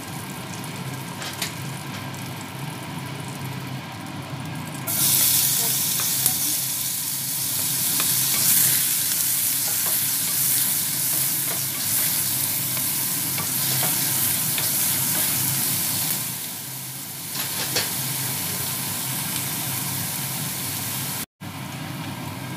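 Food frying in hot oil, a steady sizzle that grows louder about five seconds in and eases back down near seventeen seconds.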